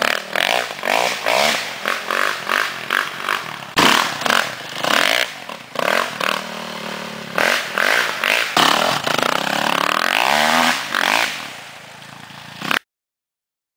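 Suzuki RM-Z450 four-stroke single-cylinder dirt bike engine being ridden hard: quick repeated bursts of throttle, then longer revs rising and falling in pitch. It drops to a lower, quieter sound near the end before the audio cuts off suddenly.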